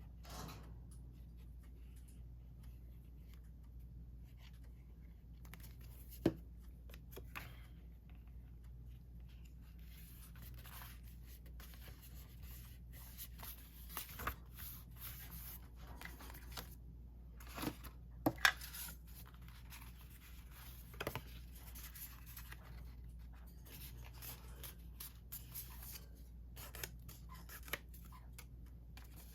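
Paper pieces being handled and glued down by hand: faint rustling and scraping of paper with a few sharp taps, over a low steady hum.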